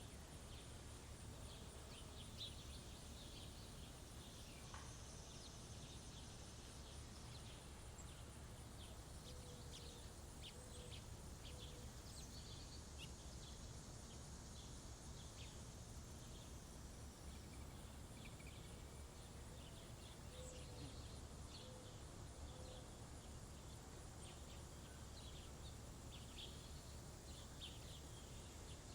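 Small songbirds at a feeder giving short, high chirps scattered throughout, over a faint, steady low outdoor rumble. Twice, a short series of soft low notes sounds from a bird further off.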